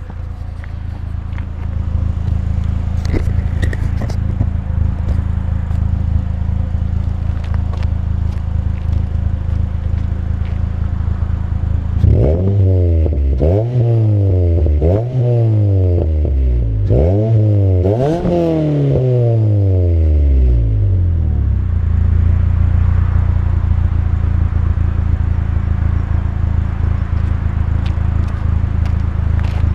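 A Ford Fiesta ST's 2-litre four-cylinder engine idling through a Milltek aftermarket exhaust, heard at the tailpipe. About twelve seconds in it is blipped in a run of about five quick revs, each rising and falling, then it settles back to a steady idle.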